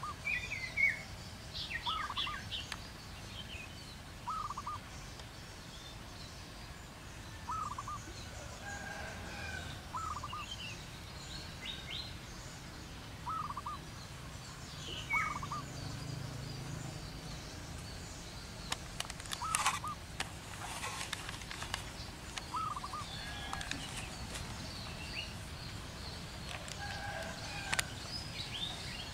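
Wild birds calling: a short call repeated every two to three seconds, with scattered higher chirps from other birds and a brief cluster of sharp clicks about two-thirds of the way through.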